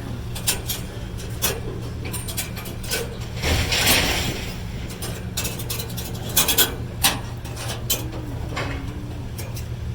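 Scrap metal clanking and knocking as pieces are handled and loaded, with a cluster of loud clanks about six and a half seconds in, over the steady hum of a vehicle engine running.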